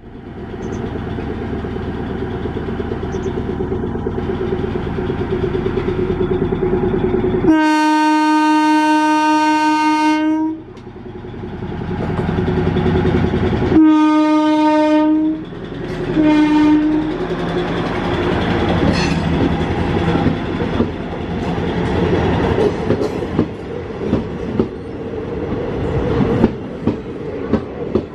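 A diesel-electric multiple unit (DEMU) train's engine running as it starts off. It gives a long horn blast about a quarter of the way in, then two shorter blasts. It then accelerates away, with wheel clicks over the rail joints coming more and more often.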